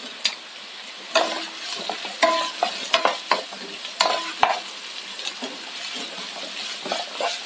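Sliced onions and curry leaves frying in hot coconut oil in a non-stick pan: a steady sizzle, with a wooden spatula scraping and knocking against the pan several times as they are stirred.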